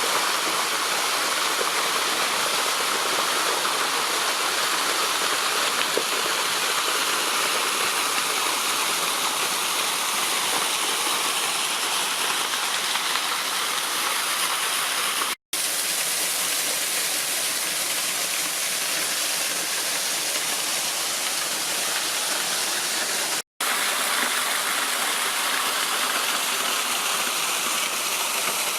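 Waterfall: steady rush of falling water, cut to silence for an instant twice, about halfway through and again about two-thirds of the way through.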